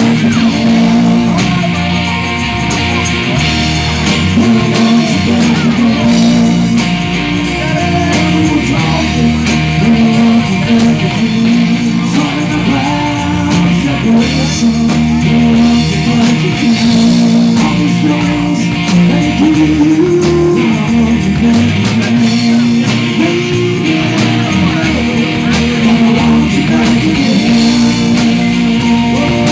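Live band playing a rock song: guitar and a moving bass line, with singing.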